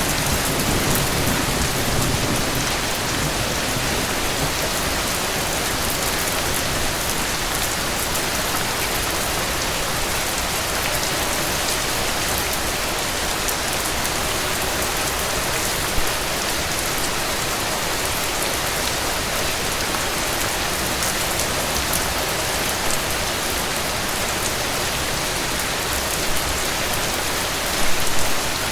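Steady rain falling and pattering on surfaces, an even dense hiss at a constant level. The low rumble of thunder dies away in the first second or two. A few slightly louder drip hits come around the middle and near the end.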